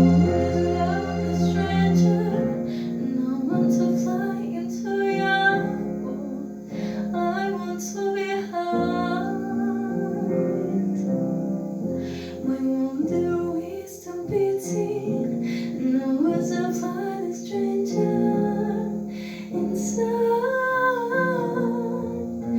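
A song with a woman singing over instrumental accompaniment.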